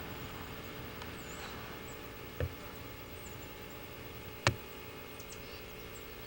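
Two sharp knocks, a small one about two and a half seconds in and a louder one about two seconds later, over a steady background hum with faint high chirps.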